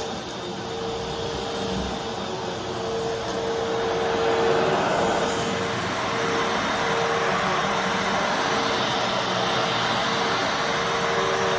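Fantom Fury Special Edition bagless vacuum cleaner running: a steady rush of air over a held motor tone, a little louder from about four seconds in.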